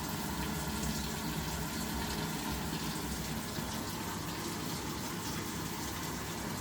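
Samsung top-loading washing machine filling with water: a steady rush of water pouring into the tub, with a low hum underneath. The machine is taking in water again after its fault of not feeding with water was repaired.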